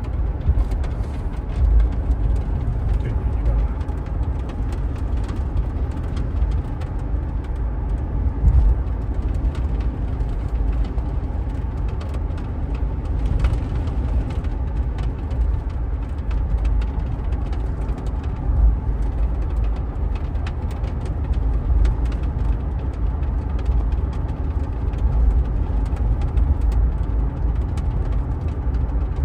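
2015 Toyota 4Runner driving at speed, a steady low rumble of road and drivetrain noise. It carries the weird noise that the owner hears come up when accelerating to 70–80 km/h.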